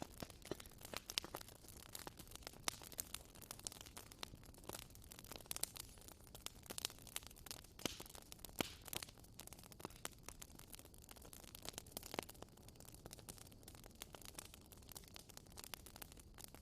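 Campfire crackling: irregular sharp pops and snaps, several a second, over a low steady hiss of burning wood.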